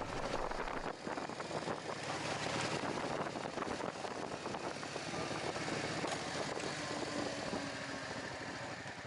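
Steady motorcycle riding noise, engine and rushing air blended into an even rough hiss without a clear engine note.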